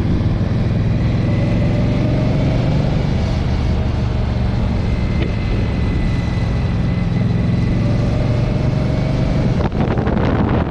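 Motorcycle engine running steadily under way, with wind noise on the microphone; about ten seconds in the wind noise turns rougher and gustier.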